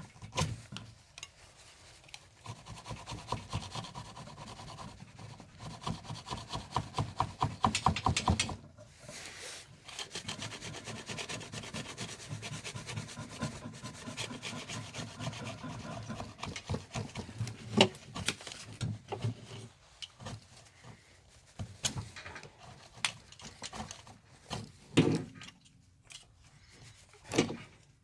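Rapid back-and-forth rubbing by hand, like scraping or filing, in spells with short pauses, then a few sharp knocks near the end.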